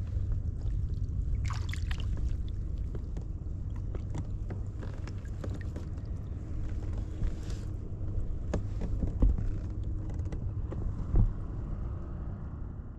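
Kayak on the water: a steady low rumble with scattered small knocks and clicks of the hull and gear, and a couple of louder thumps in the later part.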